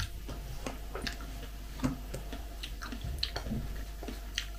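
Soft, scattered clicks and small wet sounds of someone eating and chewing, over a faint steady low hum.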